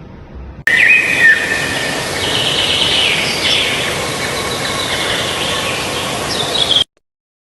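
High chirping calls over a steady background hiss. They start suddenly about half a second in and cut off abruptly near the end.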